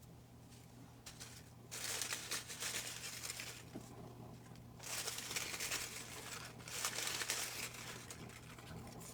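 Paper slips rustling and crinkling as a hand rummages through them in a hat, in two bouts starting about two and five seconds in.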